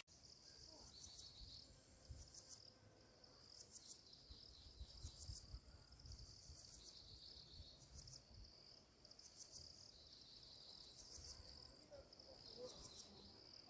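Faint insect chirping in the forest: short, very high-pitched pulsed chirps repeating about once every second and a half, over a faint low rumble.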